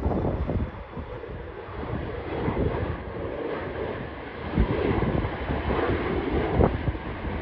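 Airplane engine noise from a taking-off aircraft: a steady rush, with wind buffeting the microphone in gusty low rumbles.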